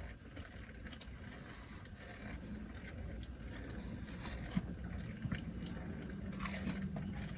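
Quiet eating sounds, soft chewing with scattered small clicks, over a low steady rumble.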